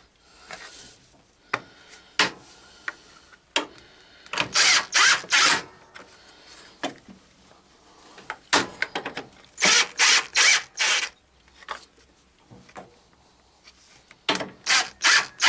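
Ratchet wrench tightening a bolt down, worked in quick sets of three or four rasping strokes with small knocks and clicks between the sets.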